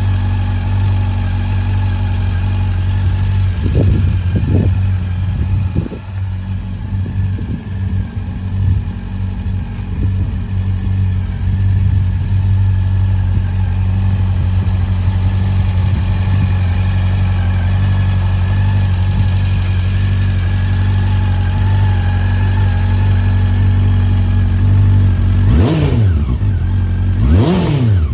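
Honda CB400 Super Bol d'Or's 399 cc inline-four engine idling steadily, with a few short throttle blips a few seconds in and two quick revs, each rising and falling, near the end.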